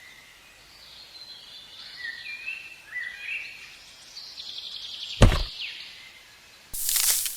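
Birds chirping faintly in the background, then a single sharp thunk about five seconds in. Near the end come loud, noisy strokes, about one every half second.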